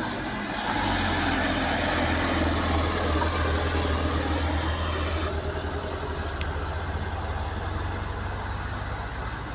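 Diesel truck engine labouring under load on a steep climb, with a thin high whine over the low rumble. It gets louder about a second in and eases after about five seconds as the truck passes.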